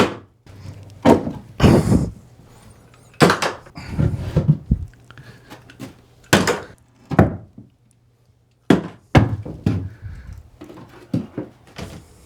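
Irregular knocks and thuds, a dozen or so, with a longer scraping rush about two seconds in: plumbing pipe and tools being handled and knocked about in a joist bay.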